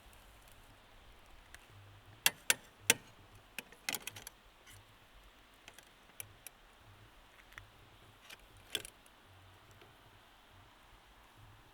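A few sharp clicks and knocks from objects being handled: three loud ones in quick succession a little over two seconds in, a cluster around four seconds, scattered lighter ticks, and another loud click near nine seconds.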